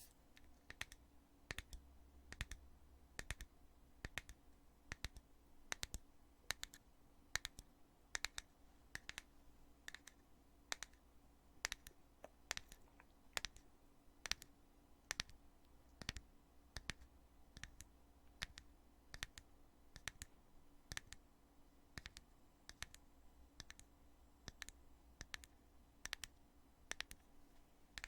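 Lid of a cosmetic foundation container being snapped open and shut over and over, making a steady run of sharp clicks, about two a second and often in pairs.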